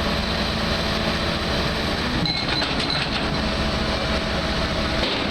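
Diesel excavator engine running steadily under load as it pulls the boat's shaft and reduction gear, with a few short metallic clanks about two to three seconds in.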